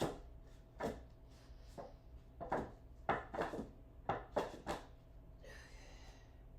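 Wooden 2x4 boards knocking and clunking as they are handled and set in place: about ten light knocks over five seconds, then a short scraping rustle near the end.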